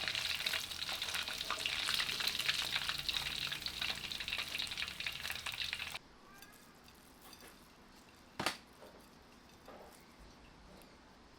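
Chicken pieces deep-frying in hot oil in a wok: a dense crackling sizzle full of small pops, which cuts off abruptly about six seconds in. After that it is quiet apart from a single sharp click a couple of seconds later and a few faint small sounds.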